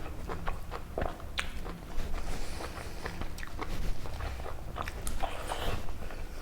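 Close-miked eating sounds: a person biting and chewing food, with irregular wet smacks and crunches, some sharper clicks about a second and a half in and near the end.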